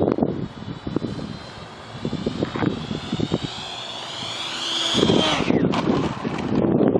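Whine of a 68mm electric ducted fan with a 10-bladed rotor on an RC jet. The high whine climbs steadily in pitch, then drops sharply about five seconds in as the jet passes. Wind buffets the microphone.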